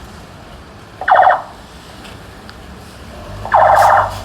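Vehicle horn honking twice: a short blast about a second in, then a longer one near the end. A low engine hum comes up under the second honk.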